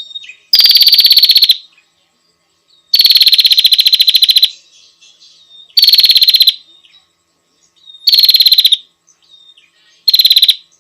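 A female prenjak (bar-winged prinia) calling: five loud, rapid trills of even, high-pitched ticks, each lasting about a second, with soft short chirps between them. This is the female's call to a male.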